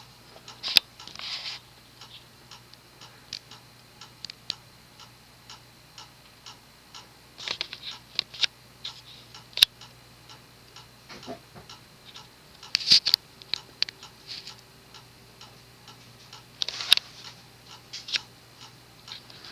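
Vintage Moss WF Series ceiling fan with an oversized industrial-type spinner motor running on low speed, with a steady low buzz from the motor, which the owner takes for a bad coil. Sharp ticks come about twice a second throughout.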